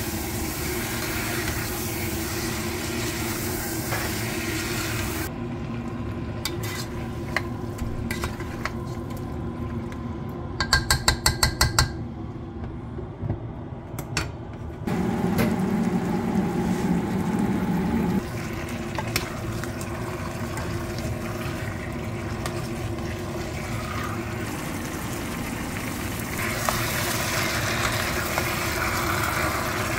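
Chicken pieces frying in a pot, sizzling as they are stirred; the sizzle drops when the lid goes on and comes back louder near the end as the pot is stirred again. Midway there is a quick run of about ten clicks, and later a low steady hum for about three seconds.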